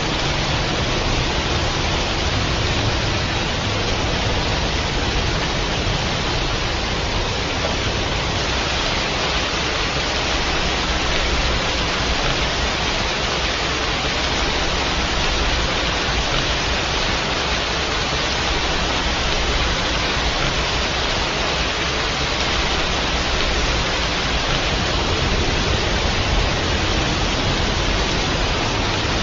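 Steady rain, a dense, even hiss that neither swells nor breaks.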